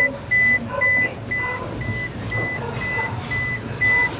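Electronic beeper sounding a short high-pitched beep over and over, a little more than two beeps a second, steady and unchanging.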